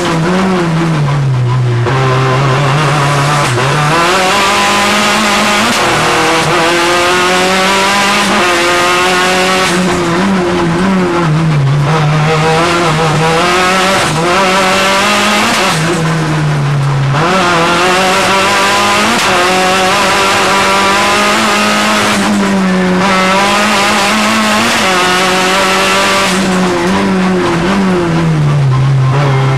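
Audi A3 race car's engine heard from inside the cabin under hard acceleration. It rises in pitch as it pulls through the gears, then drops sharply at each gear change or lift for a corner, over and over.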